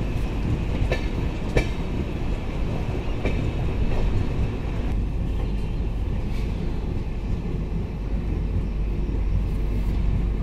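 Passenger train running along the track, heard from aboard the moving coach: a steady low rumble of wheels on rails, with a few sharp clicks in the first half of the clip.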